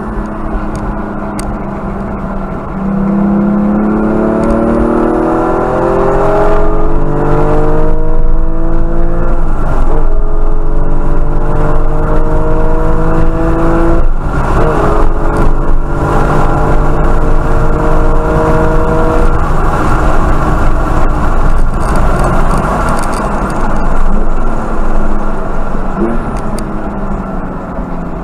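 Porsche GT4's flat-six engine under full throttle, heard from inside the cabin, its note rising steadily through the gears with upshifts about 10 and 14 seconds in. Past the two-thirds mark it lifts off, and the engine note drops as the car brakes and shifts down.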